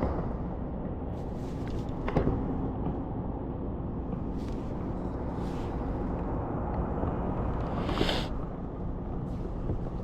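Steady low rumble of wind on the microphone out on open water, with two brief knocks about two and eight seconds in.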